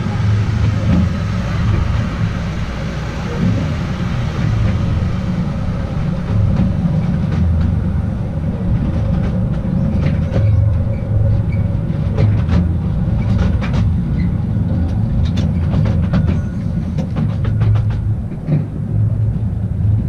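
The Artouste narrow-gauge tourist train running along its track, heard from on board: a steady low rumble of wheels on rails. From about a third of the way in, frequent sharp clicks from the wheels and rail joints join it.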